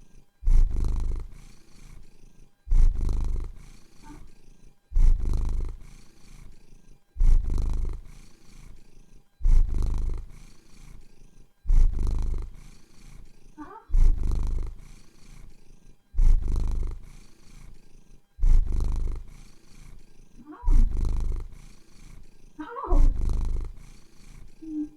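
Domestic cat purring close to the microphone, the purr swelling and fading in even pulses about every two seconds with its breathing. A few faint, short squeaky sounds come in the second half.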